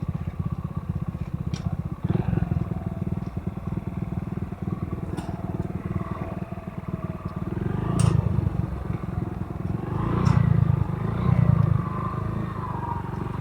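Motorcycle engine running while riding, with a dense low rumble throughout. It swells louder about eight seconds in and again a couple of seconds later.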